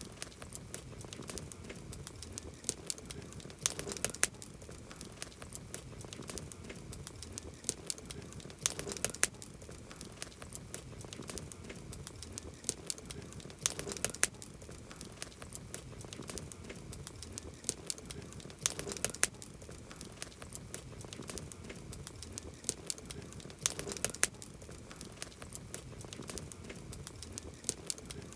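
Wood campfire crackling: a steady run of small sharp pops, with a cluster of louder pops about every five seconds.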